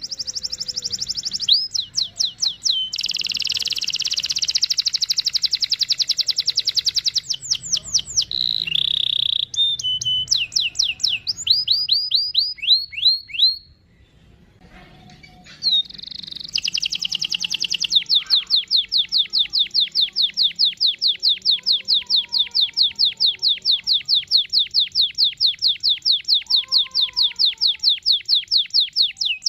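Domestic canary singing in fast rolled trills of high, rapidly repeated notes. It pauses briefly about halfway, then sings one long, even roll through the last dozen seconds.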